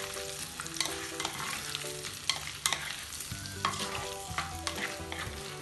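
Wooden spatula stirring chicken pieces and sliced onions frying in oil in an earthenware clay pot. Irregular sharp knocks and scrapes of the spatula against the pot sound over a steady sizzle.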